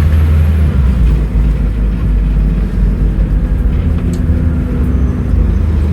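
Scania N310UA articulated city bus's diesel engine running under way with a steady low drone; its note drops slightly about a second in.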